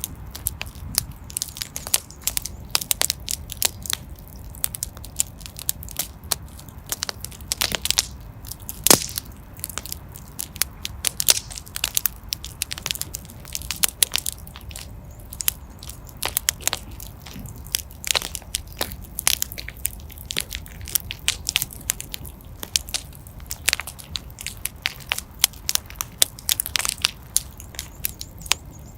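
Fire burning in a fireplace, crackling and popping: many irregular sharp pops, a few of them louder, over a steady low rumble.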